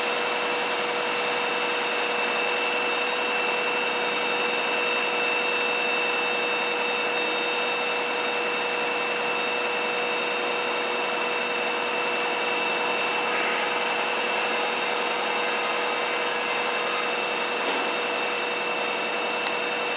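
A steady mechanical hum with a constant high whine over an even rushing noise.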